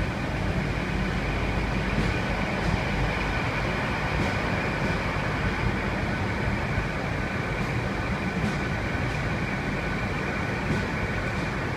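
Class 800 train moving slowly along the platform: a steady low rumble with a faint, steady high whine.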